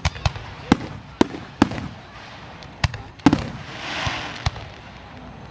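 Fireworks bursting: a string of sharp bangs, about eight of them, with a hissing crackle about four seconds in.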